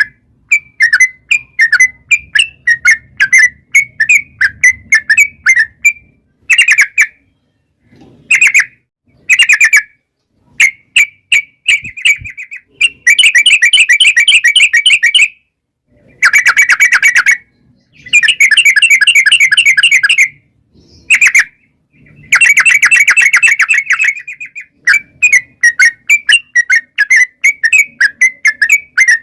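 Yellow-vented bulbul (trucukan) song: quick runs of short chattering notes, broken several times by long rolling trills lasting a second or two each.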